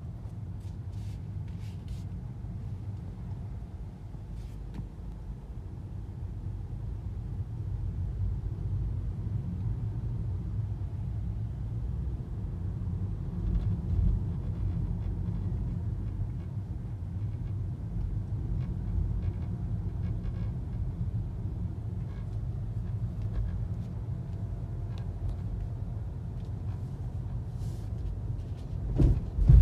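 Steady road rumble inside a Tesla Model 3's cabin while driving, with faint intermittent ticks and rattles: the center-console noise, which may come from the air vent. There is a louder thump near the end.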